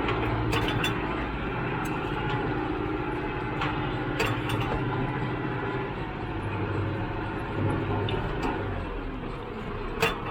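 Tractor engine running steadily, with scattered knocks and clicks, the sharpest one near the end.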